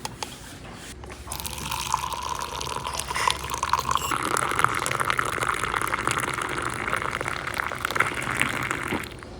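Liquid pouring steadily into a container, its pitch slowly rising as the container fills; it starts about a second in and stops shortly before the end.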